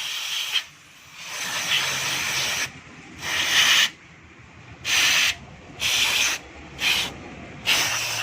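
Aerosol carburetor cleaner sprayed onto a disassembled motorcycle carburetor in a series of short hissing bursts, about seven in all, to flush dirt out of it.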